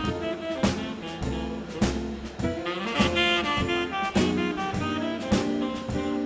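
Live swing jazz band playing an instrumental passage: a saxophone-and-brass horn section over upright bass and drum kit, with sharp drum accents on the beat.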